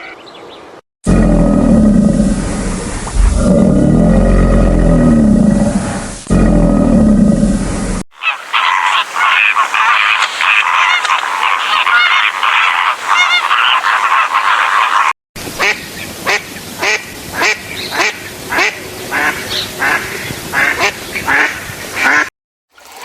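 Ducks quacking in short clips cut one after another: a loud, lower-pitched stretch with heavy background noise first, then a dense flock chattering, then a regular run of quacks about two a second near the end.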